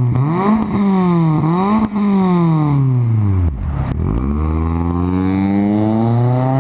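Car engine revving: its pitch rises and falls twice, drops slowly as the throttle eases off, then climbs steadily as the car accelerates away.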